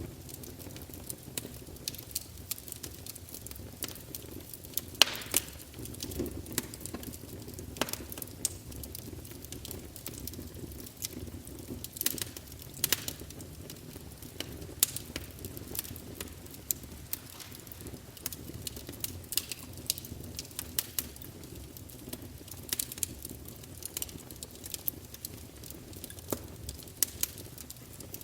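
Wood fire burning in a fireplace: a steady low rumble of flames with frequent irregular crackles and sharper pops from the burning logs.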